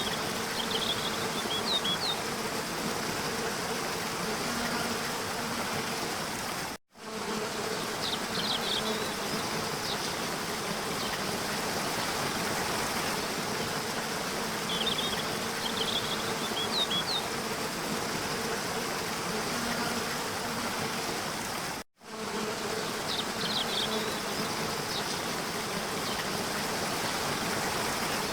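Waterfall: a steady rush of falling water with a faint steady hum beneath it. Short clusters of high chirps come every seven to eight seconds, and the sound cuts out for an instant twice, about a quarter and three-quarters of the way through, where the recording loops.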